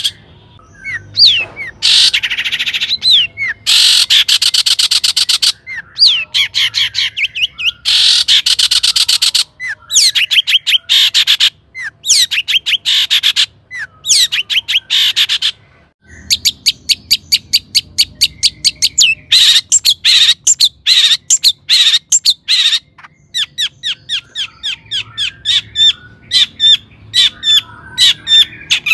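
Long-tailed shrike (cendet) singing loudly: fast runs of short, sharp, high notes broken by dense harsh chattering stretches, with brief pauses between phrases.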